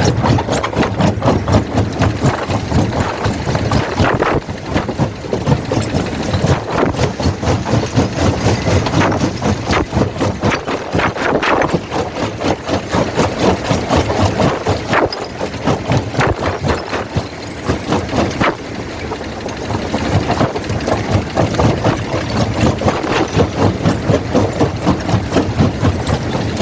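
Quarry primary jaw crusher running, a heavy mechanical churning that pulses a few times a second, with sharp cracks and knocks of rock breaking between the jaws.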